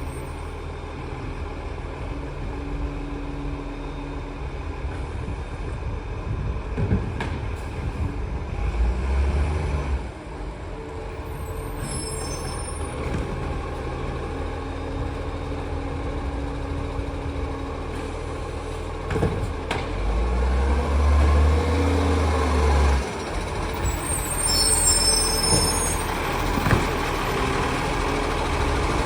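Garbage truck's diesel engine running steadily, with two spells of louder low rumble. Short hisses of air are released from the air brakes, about twelve seconds in and again near the end.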